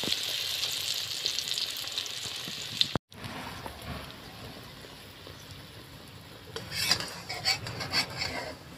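Egg-battered brinjal slices frying in hot oil in a kadai, with a steady sizzle that drops abruptly and comes back quieter about three seconds in. Near the end a metal spatula scrapes and clinks against the kadai several times as the fried piece is turned.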